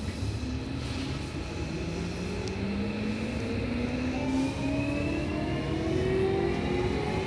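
Seibu 6000-series train's Toshiba IGBT VVVF inverter and traction motors whining through several stacked tones that rise steadily in pitch as the train accelerates away from a station, over the rumble of wheels on rail, heard from inside the motor car.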